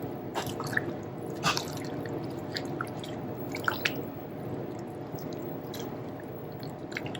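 Steady kitchen background hum with scattered small clicks and short pops, such as utensils and pots being handled among cooking soups.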